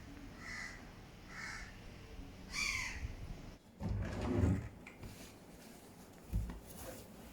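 Four short, pitched animal calls in the first three seconds, followed about four seconds in by a dull knock like a drawer or cupboard being moved.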